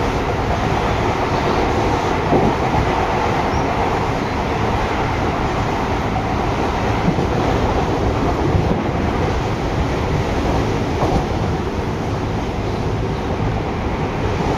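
Seibu 6000 series electric train running at a steady speed, heard from inside the car: an even running rumble with a few faint knocks from the track.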